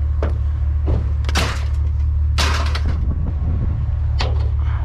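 Vehicle engine running with a steady low hum, with four short noisy sounds over it, the loudest two in the middle.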